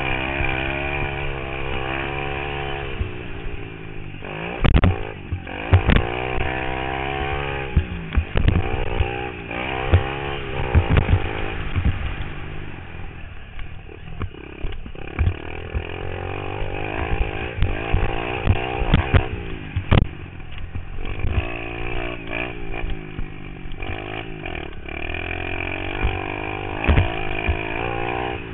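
Pit bike engine revving hard and easing off again and again as it is ridden around a dirt motocross track, its pitch rising and falling with each throttle change. Sharp knocks and thuds are scattered throughout, heard through a helmet-mounted camera.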